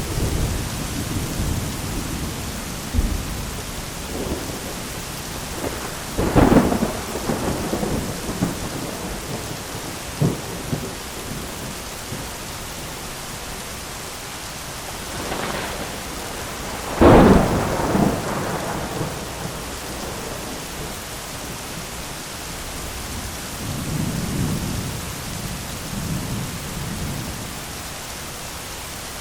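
Steady heavy rain on an umbrella in a thunderstorm, with thunder rumbling: two loud cracks of thunder rolling off, about six seconds in and again about seventeen seconds in, and softer low rumbles near the start and near the end.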